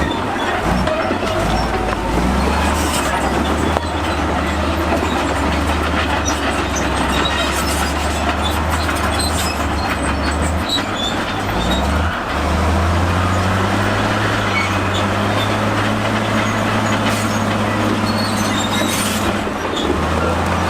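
Crawler bulldozer working in stone, its diesel engine running under load while the steel tracks clank and squeal and rock grinds against the blade. The engine note steps up about twelve seconds in and holds there.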